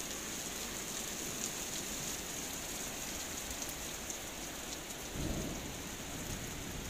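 Heavy rain falling steadily on bare ground, a constant hiss with scattered drop ticks; a short low rumble about five seconds in.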